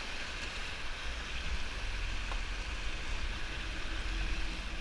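Whitewater creek rapids rushing steadily, an even hiss of moving water, with a low rumble underneath.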